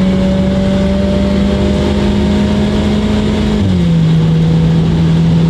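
Mini John Cooper Works' turbocharged four-cylinder engine heard from inside the cabin, its note slowly rising under acceleration, then dropping sharply about three and a half seconds in as the automatic gearbox upshifts, and pulling on at the lower pitch. The driver finds the drop in revs too deep: in D the gearbox shifts a bit early into a torque hole.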